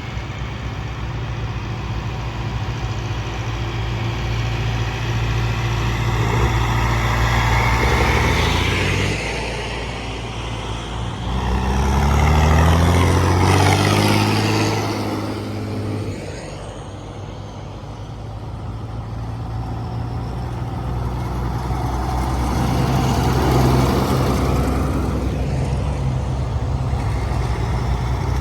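Vintage tractor engines running as tractors pass one after another, each growing louder and then fading. The loudest passes about halfway through, its engine note dropping in pitch as it goes by.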